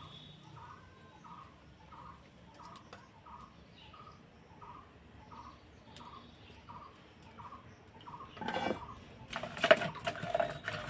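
A bird calling with one short note repeated about twice a second, faint. Near the end come louder clatters and knocks as the metal frying pan is set down on the iron griddle and the firewood in the clay stove is shifted.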